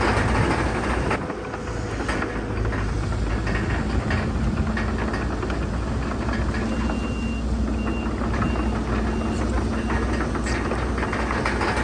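Diesel engines of heavy earthmoving machinery running steadily, with a reversing alarm beeping faintly and repeatedly in the second half.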